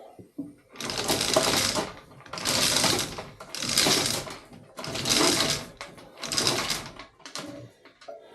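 A power tool rattling rapidly in five bursts of about a second each, with short pauses between them.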